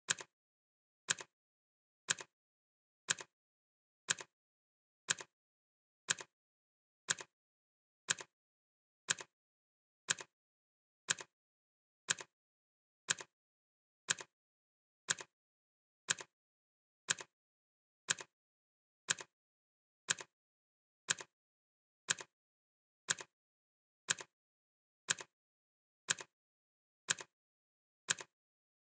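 Clock ticking sound effect: one crisp, bright tick every second, evenly spaced, with silence between the ticks.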